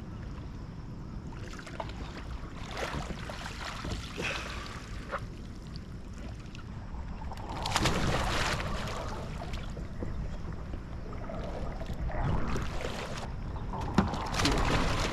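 Water splashing and washing around a kayak in irregular swells, with a steady low rumble of water and wind underneath and one sharp knock near the end.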